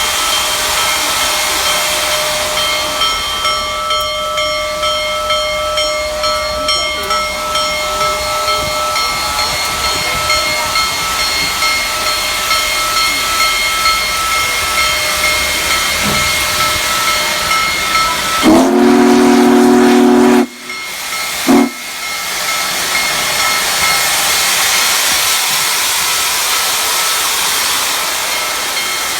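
Union Pacific Big Boy steam locomotive getting under way: steady steam hiss with a regular beat of exhaust chuffs, then a long whistle blast about two-thirds of the way in, followed by a short toot.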